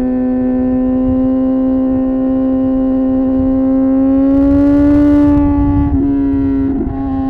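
Suzuki GSX-R 750 inline-four engine and exhaust holding a steady high-revving note while riding, the pitch climbing a little about four to five seconds in and dropping back near six seconds.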